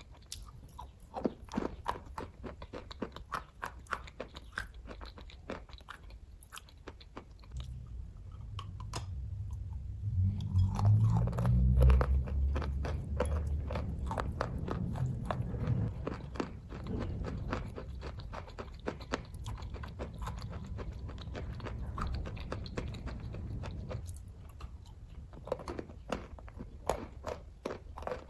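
Close-up chewing of kaju katli, the cashew fudge sweet, with many small mouth clicks. A low rumble joins in about eight seconds in, is loudest a few seconds later, and fades out near the end.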